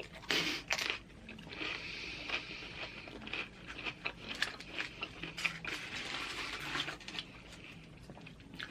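Close-miked chewing of loaded tortilla-chip nachos: a few sharp crunchy bites in the first second, then steady crackly crunching and chewing.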